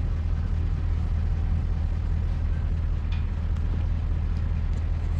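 Truck engine idling with a steady, deep rumble, heard from inside the cab.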